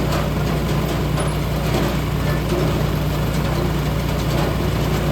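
A heavy engine running steadily at an even speed, a constant low drone with no change in pitch.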